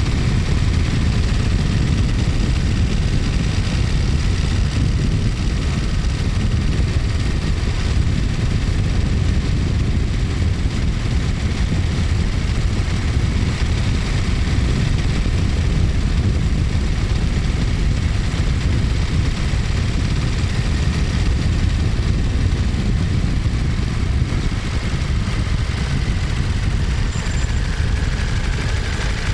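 Ducati Monster 1200S's L-twin engine and exhaust running steadily at an even pitch.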